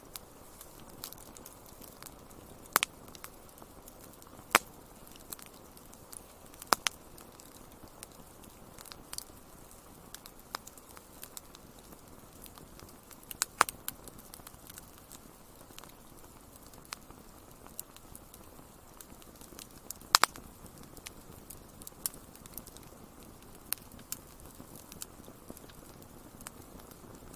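Wood fire crackling: irregular sharp pops and snaps, a handful of them louder, over a soft steady hiss.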